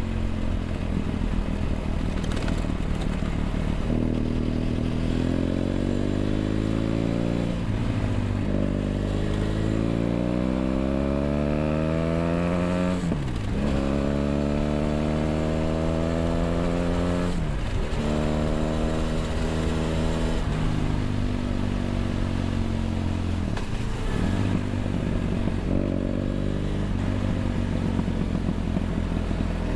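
BMW F800GS parallel-twin engine through a LeoVince LV ONE EVO stainless exhaust, heard from the rider's position while riding. The revs climb and fall repeatedly, with three quick sharp drops in pitch.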